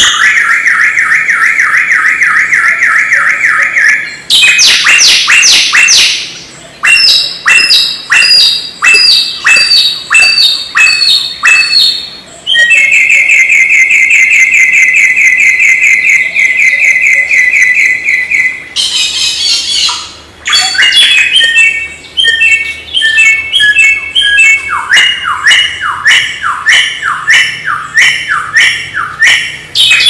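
Samyong bird singing a loud, varied song. Long rapid trills alternate with series of sharp, downward-sweeping whistled notes, repeated about two a second, broken by short pauses between phrases.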